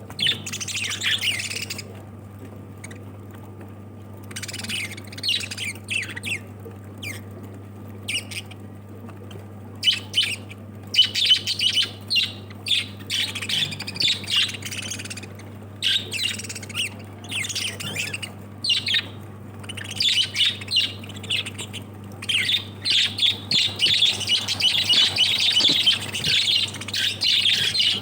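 Lovebirds chirping and squawking in quick clusters of high calls, with pauses of a second or two between them, growing denser and busier near the end. A steady low hum runs underneath.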